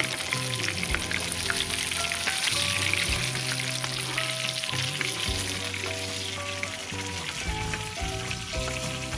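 Whole smelt (eulachon) shallow-frying in hot oil in a pan: a steady crackling sizzle. Soft background music with held notes plays underneath.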